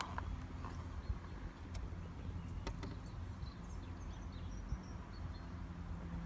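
A steady low engine hum, with a few faint bird chirps and light clicks over it.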